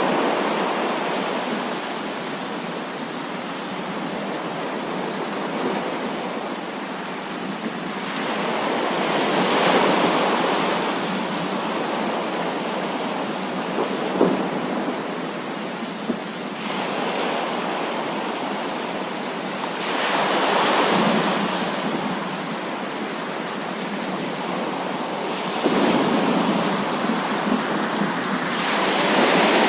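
Heavy rain with thunder: a steady downpour that swells louder several times, with a couple of sharp cracks near the middle.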